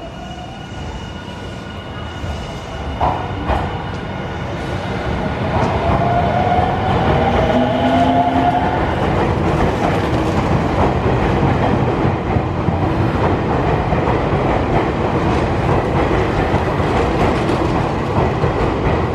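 Nankai 50000 series electric train running on the rails, growing louder over the first few seconds and then holding steady, with a couple of sharp clicks about three seconds in and a rising whine from about five to nine seconds in.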